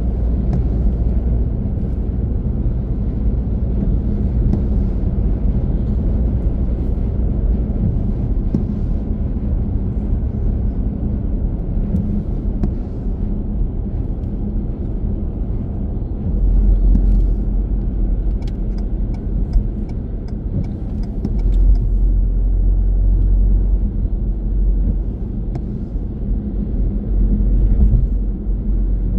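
Car driving on the road: a steady low rumble of road and engine noise that swells louder a few times, with a short run of faint high ticks a little past the middle.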